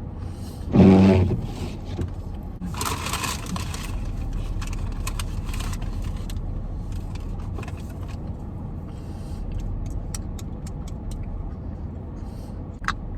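Inside a car with the engine running: a steady low hum throughout. A short hummed voice sound comes about a second in, paper rustles around three seconds in, and a run of light clicks follows near ten seconds.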